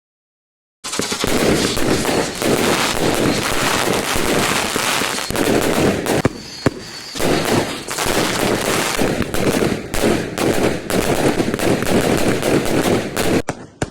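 Fireworks going off in a rapid, continuous barrage of crackling bangs. It starts suddenly about a second in and thins out near the end.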